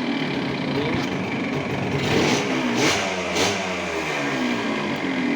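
1977 Yamaha DT 100's small two-stroke single-cylinder engine running, revved up and down a few times. Three sharp clicks sound about two to three and a half seconds in.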